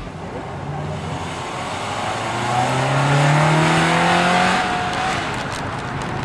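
Subaru Impreza WRX's turbocharged flat-four engine accelerating, its pitch rising steadily for about three seconds and then falling away a little past halfway, over a steady rushing noise.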